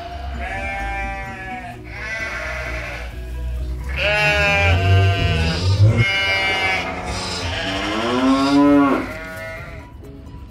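A run of about five bleating farm-animal calls, each about a second long with a wavering, bending pitch, the last one sliding up. They play over steady background music.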